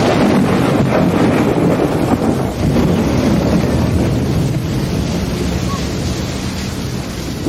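Steady rain with a long, rolling rumble of thunder, strongest at the start and slowly fading.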